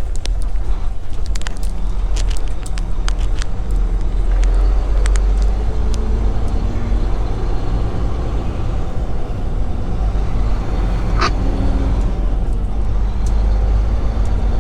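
Semi truck's diesel engine running at low speed, heard from inside the cab as a steady low rumble. Scattered light clicks, and one short sharp sound about eleven seconds in.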